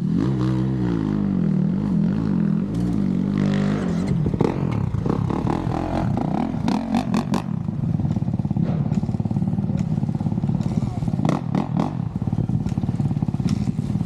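Dirt bike engine revving up and down in quick swells for the first few seconds, then running steadily with scattered clattering knocks.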